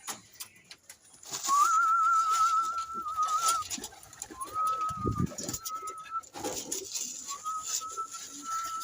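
Pigeons being fed in a loft: scattered clicks and scuffles from pecking and feet, with low cooing. Three long, thin, slightly wavering whistle-like tones of about two seconds each sound over them, the source of which is not clear.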